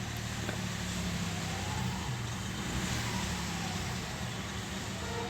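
Common-rail diesel engine with freshly serviced, air-bled Delphi injectors idling steadily with the throttle released: it has settled to a normal idle and is not knocking.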